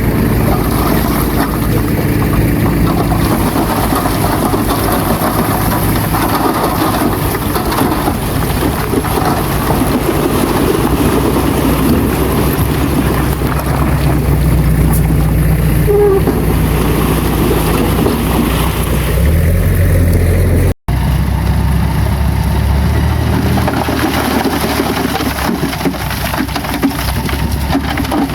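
Bulldozer's diesel engine running steadily under load, with a noisy clatter over the engine note. The sound drops out for an instant about two-thirds through.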